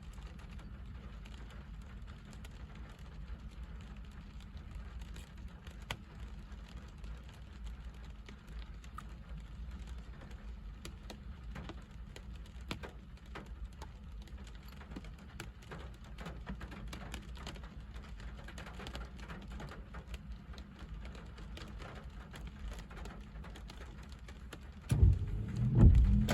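Steady rain, with scattered raindrop ticks over a low rumble. A loud low-pitched burst lasts about a second near the end.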